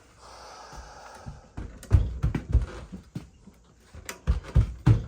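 Tools and metal parts being handled on boiler controls: a faint steady whir for the first second or so, then several sharp knocks and clicks in two clusters.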